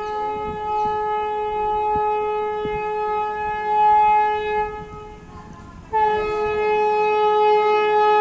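Vande Bharat Express train's horn sounding two long, steady blasts: the first stops about five seconds in, and the second starts about a second later.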